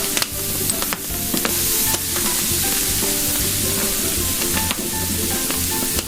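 Horumon (grilled offal) sizzling steadily as it fries, with scattered sharp clicks and pops, over background music.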